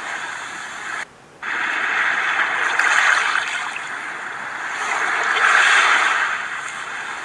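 Ocean waves washing in and out in slow swells, with a brief gap about a second in.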